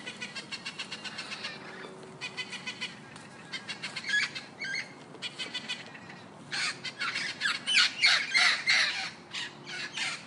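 Parrot squawking: rapid runs of harsh, rasping calls that grow louder and coarser in the second half.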